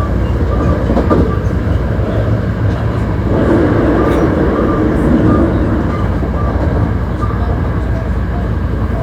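Hankyu 1300 series electric train running at speed, heard inside the car: a steady rumble of wheels on rail with regular light clicks, and a louder rushing stretch from about three to six seconds in.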